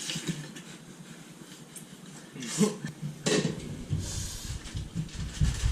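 Low, uneven thumping from the floor above starts about four seconds in and grows louder, over a few light clinks of dishes and cutlery.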